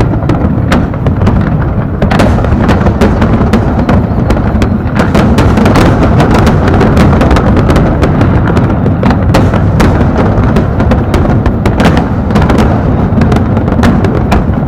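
Continuous aerial fireworks barrage: a steady low rumble of booming shells with many rapid sharp bangs and crackles layered over it.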